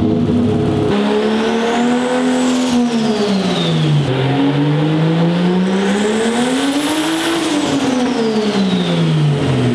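Turbocharged BMW E30 M20 2.5-litre straight-six on a chassis dyno, revved up and back down twice. A high whine rises and falls with the engine.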